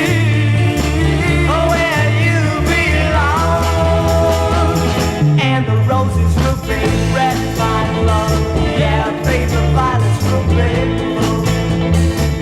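1960s garage-rock song in an instrumental passage between vocal lines: a steady bass pattern under a lead line that slides and bends in pitch.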